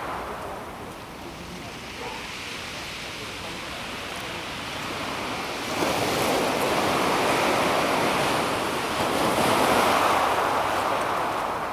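Calm sea waves washing onto a pebble beach, the water and stones hissing. A wave breaks suddenly a little before halfway and the wash stays loud, swelling again and then fading near the end.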